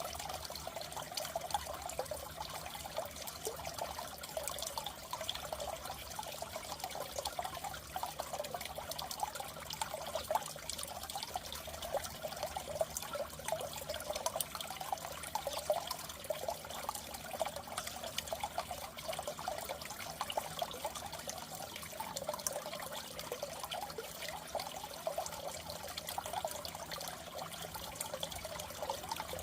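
Water trickling and bubbling steadily, as in a goldfish tank, with a faint low hum underneath.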